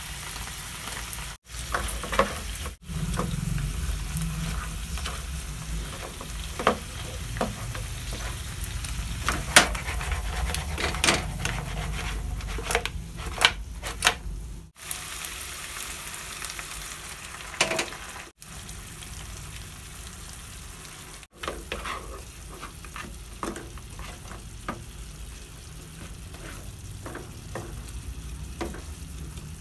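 Pork ribs in black bean sauce sizzling in a non-stick frying pan, with a wooden spatula scraping and knocking against the pan as the ribs are stirred and tossed. The knocks come thick in the first half and thin out later.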